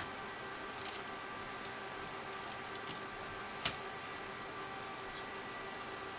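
A few small clicks and taps from handling a TI-84 Plus calculator's plastic parts: two sharper clicks, one about a second in and one a little before the middle, with fainter ticks between, over a steady faint hum.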